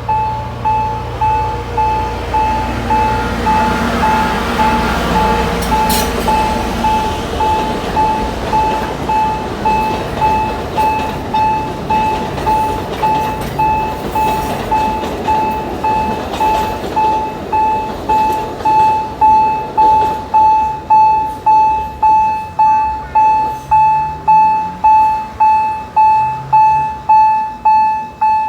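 Railroad crossing warning bell ringing with an even, repeated ding, about one and a half strikes a second, growing louder in the later part and cutting off suddenly at the end. A train rumbles by in the first several seconds.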